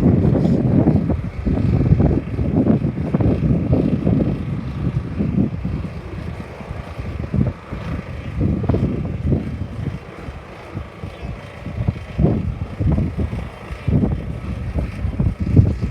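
Strong gusty wind buffeting the microphone: an irregular low rumble that swells and eases, dropping off around the middle before picking up again.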